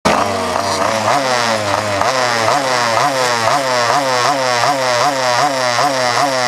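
Small two-stroke mini moto engine revved in quick, repeated throttle blips, about two a second, its pitch rising with each blip, while the bikes sit waiting to start.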